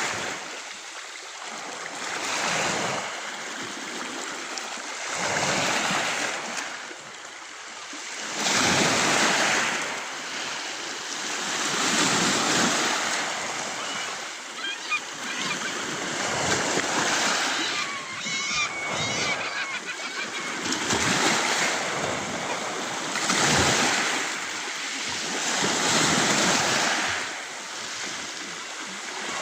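Sea waves surging onto the shore and washing back, the rush swelling and fading every two to three seconds.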